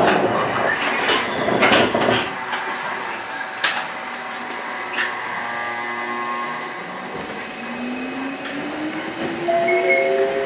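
Electric train pulling away from a station: a few clicks and knocks, then, from about seven seconds in, the traction motors' whine rising steadily in pitch as the train accelerates.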